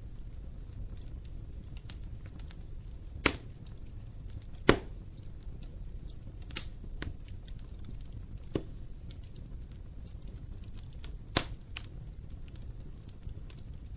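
Wood fire burning in an open fireplace: a low steady rumble with frequent small crackles and a few sharp loud pops, the loudest about three and a half seconds in, just under five seconds in, and near eleven and a half seconds.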